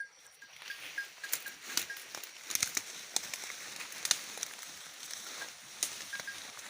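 Leafy branches rustling and crackling, with many irregular sharp twig snaps, and a faint short high chirp repeating throughout.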